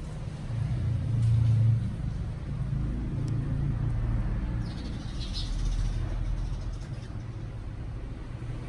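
A low, steady rumble, as of a car engine idling, loudest about a second in. The horn is not sounding.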